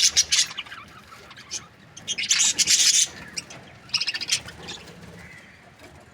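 Budgerigar chirping and chattering in short scratchy bursts, loudest in a cluster about two and a half seconds in and again around four seconds in, then fainter.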